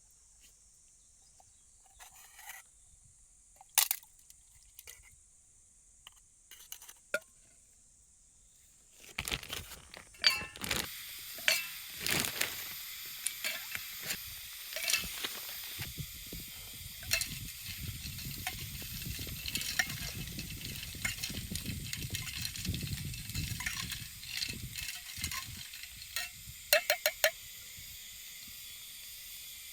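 Camp cooking: a steady hissing sizzle with frequent clinks and taps of metal pots and utensils, starting about nine seconds in after a quieter stretch of a few light clicks. Near the end there is a quick run of four or five clinks.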